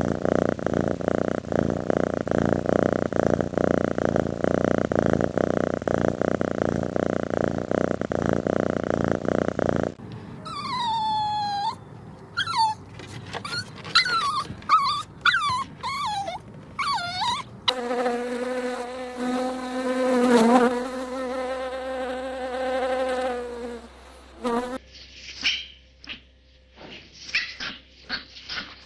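A run of separate animal recordings. First comes a dense, finely pulsed buzz or purr for about ten seconds. Then a series of sliding, whining calls, then a steady, held, pitched buzz for about six seconds, and finally short, high chirps.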